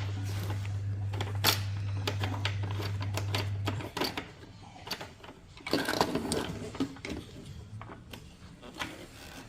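A small electric motor hums steadily, then cuts off abruptly about four seconds in, while plastic parts click and knock repeatedly as they are handled.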